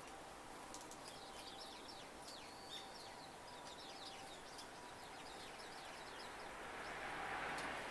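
Small songbirds twittering: a rapid run of short, high, falling calls for several seconds, fading out about five seconds in. A faint rushing noise swells near the end.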